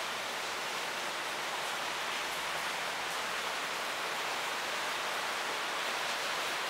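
Heavy rain falling steadily, an even hiss with no single drops or other events standing out.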